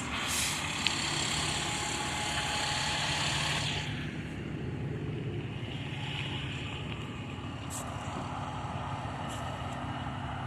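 Fire engine's diesel engine running steadily, with a loud hiss for about the first four seconds before it settles back to the engine alone.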